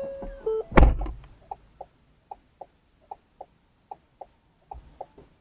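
A short tune of held, stepping notes ends, then a single loud bang or crash comes about a second in. After it, faint short high chirps or beeps follow in pairs, repeating steadily.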